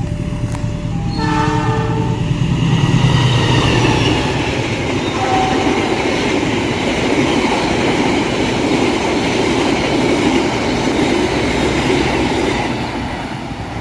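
Train horn sounding briefly about a second in, a short chord of several tones, followed by the train passing at speed: loud, steady rumble and wheel noise on the rails that eases off near the end.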